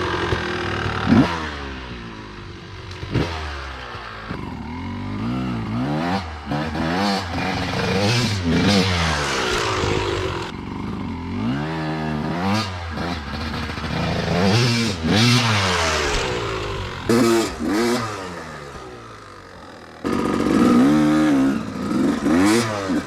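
1993 Yamaha YZ250 single-cylinder two-stroke dirt bike engine revving hard over and over, its pitch climbing and dropping with each burst of throttle and gear change. The sound fades away towards the end, then comes back loud with about three seconds to go.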